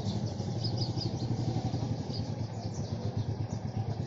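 Royal Enfield Meteor 350's single-cylinder engine running steadily at low revs, with an even, rapid exhaust beat, as the motorcycle rides slowly up and comes to a stop.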